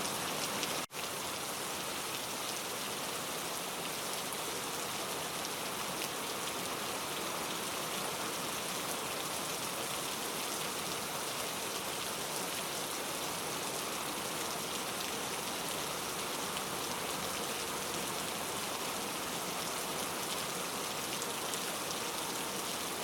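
Steady, heavy rain falling, an even dense patter with no thunder. About a second in, the sound drops out for a split second and then resumes.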